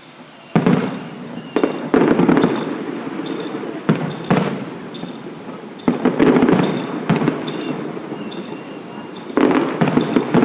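Fireworks going off: a run of loud, sharp bangs coming in clusters, each followed by a rumbling, crackling decay.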